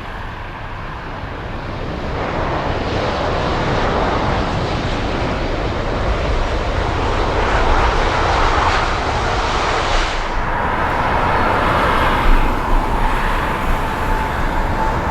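Jet airliner engines passing close by, a wide rush that builds over the first few seconds. About ten seconds in, the hiss thins and a steady engine whine carries on.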